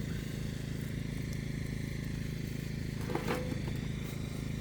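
A steady low motor-like hum, with a brief higher sound about three seconds in.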